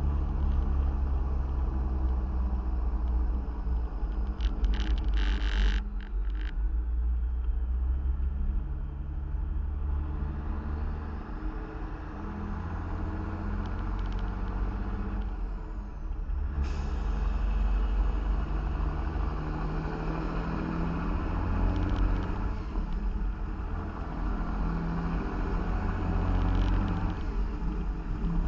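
Diesel semi-truck engine running under way, its note rising and dropping several times through the gears, with a brief hiss about five seconds in.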